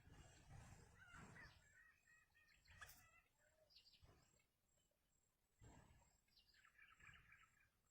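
Faint, scattered chirps and short calls of small birds. A quick run of chirping comes near the end, over a low rumble.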